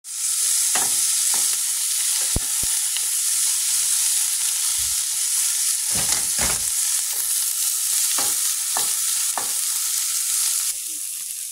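Sliced onions and bell peppers sizzling in a frying pan, stirred with a wooden spatula that knocks and scrapes against the pan now and then. The sizzle eases a little near the end.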